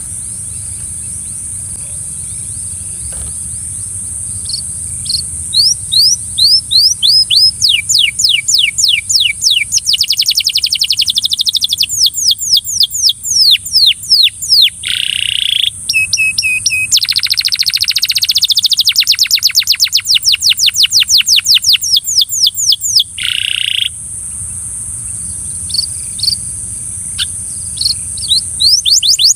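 Belgian canary singing in fast trills of rapidly repeated, downward-sweeping notes, in bursts that speed up, with short harsh rasping notes between them. A steady high-pitched tone runs beneath the song throughout.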